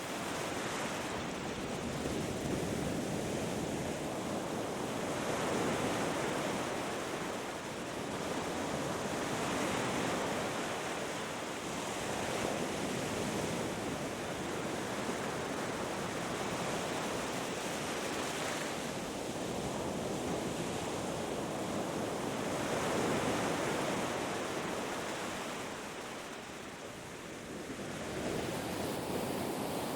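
Ocean waves breaking and washing up a beach, a steady surf rushing that swells and ebbs every few seconds.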